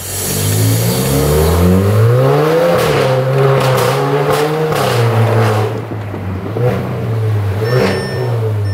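Audi A3 Cabrio's engine accelerating: its pitch climbs over the first two or three seconds, then holds steady, with a brief dip about six seconds in.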